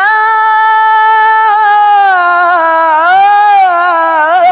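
A single voice in melodic Quran recitation holding one long, high note on the word 'lahu'. It stays steady for about a second and a half, dips and swells back up around three seconds in, then breaks into quick wavering ornaments near the end.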